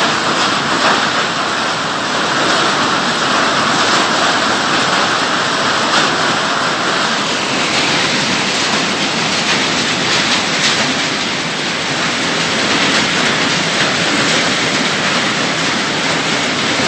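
Heavy downpour with hail from a summer storm: a loud, dense, steady hiss of rain and hailstones striking the ground.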